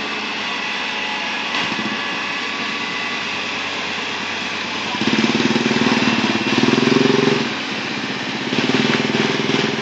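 Bulldozer's diesel engine running steadily, growing louder about halfway through for a couple of seconds, easing back, then rising again near the end.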